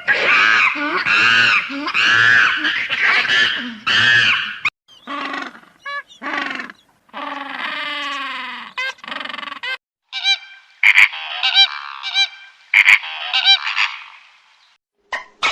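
Geese honking in a run of loud calls, broken into several short stretches that start and stop abruptly.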